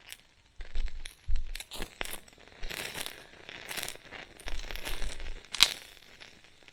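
Small wood fire in a mini fire-pit stove crackling, with irregular sharp pops and short rustling bursts, plus a few low bumps.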